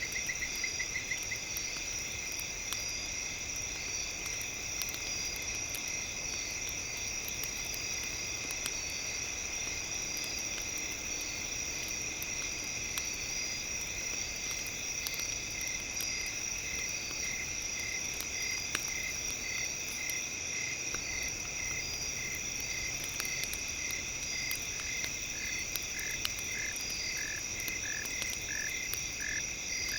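A steady chord of high synthesized tones, mixed with the faint crackle of a campfire. From about halfway, a regular series of short high pulses sets in, about one and a half a second, joined near the end by a second, lower series.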